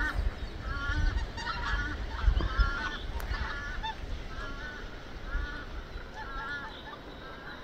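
A flock of geese honking: short repeated calls, a couple or more each second, overlapping at first and slowly growing fainter.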